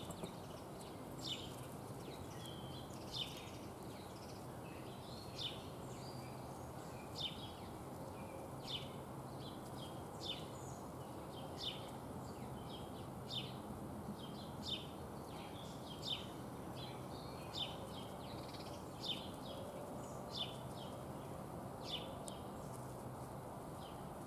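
A small songbird giving a short, sharp chirp over and over, about every one and a half seconds, over a steady background hiss.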